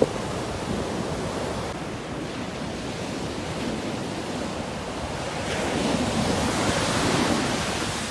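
Sea waves washing on the shore in a steady rush, one wave building louder about two-thirds of the way through and then easing off.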